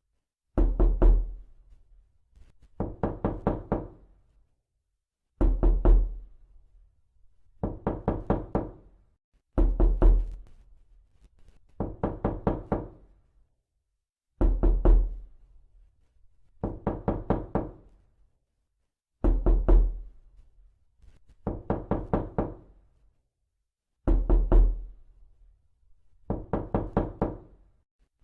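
Knocking in repeated bursts of about four to six quick raps, each burst with a deep thump, coming every two seconds or so with silence between.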